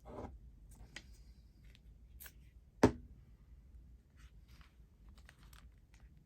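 Paper pieces being handled on a journal page: light rustling and a few small clicks, with one sharp tap just under three seconds in, the loudest sound.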